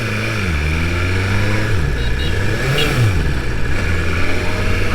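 BMW S1000RR's inline-four engine running under way. The note drops off at first, runs low and steady, then briefly rises and falls again about three seconds in.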